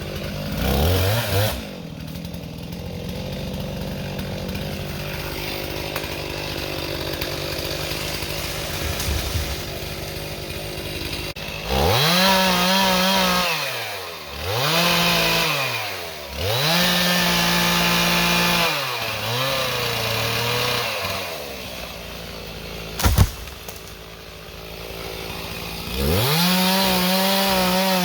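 Chainsaw engine running, steady at a lower pitch for the first half, then revved up to full speed and let back down several times. A single sharp crack about two-thirds of the way through.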